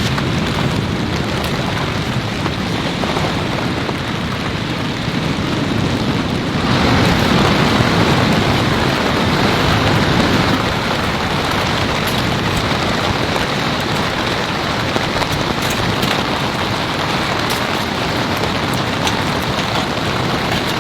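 Heavy rain falling steadily on a surface, with scattered drop ticks; it grows heavier about six and a half seconds in and eases again a few seconds later.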